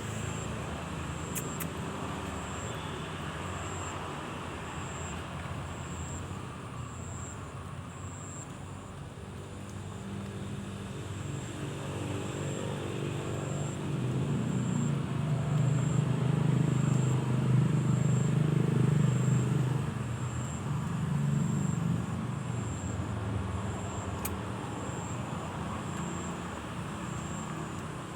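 A motor vehicle's engine running steadily, growing louder for several seconds past the middle before easing back. A faint, regular high-pitched beep repeats throughout.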